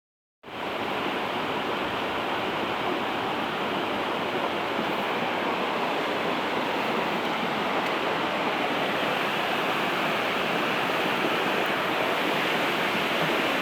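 River in flood rushing past, a steady, unbroken noise of fast, heavy water that cuts in about half a second in.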